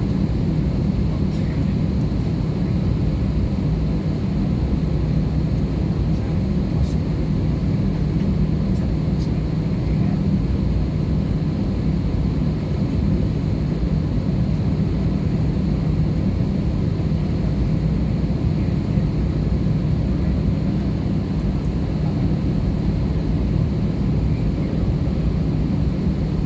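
Steady cabin drone of an Airbus A320-214: its CFM56 turbofan engines and the air rushing past the fuselage, heard inside the passenger cabin, with a constant low hum and no change in level.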